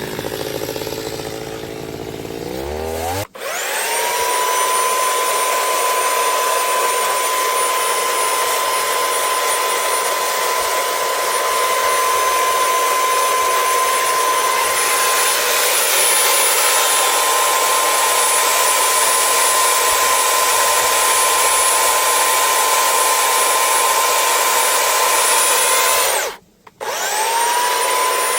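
A woodworking power tool's motor slowing down. Then an electric power tool spins up and runs steadily at high speed with a high whine. It cuts off near the end and starts up again.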